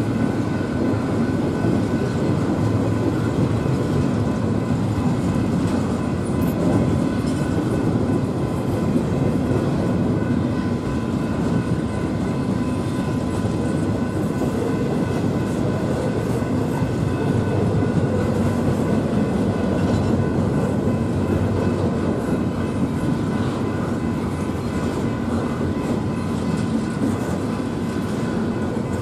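Double-stack intermodal container train rolling steadily past: a continuous rumble and clatter of its well cars' steel wheels on the rails, with a faint steady high whine.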